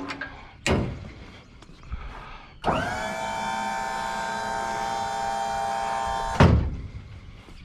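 A knock about a second in, then a small electric motor whirs steadily for nearly four seconds and stops with a thump.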